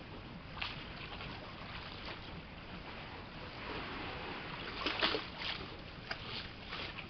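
Water lapping and splashing against the bungalow's pilings under a steady rush of wind, with a cluster of louder splashes about five seconds in.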